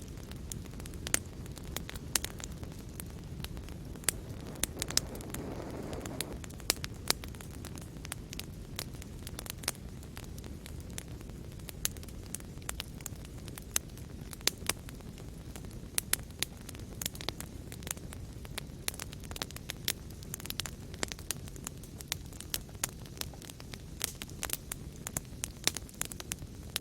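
Fire burning in a fireplace: a steady low rush of flames with frequent irregular sharp crackles and pops.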